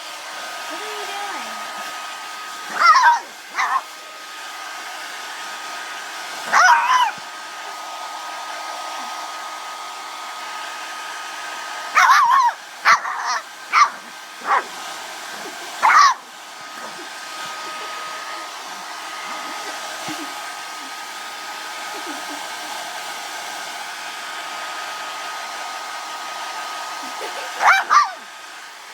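A hand-held hair blow dryer runs steadily with a thin whine while a dog barks at it in scattered short bursts, with a cluster of several barks in the middle and a couple near the end.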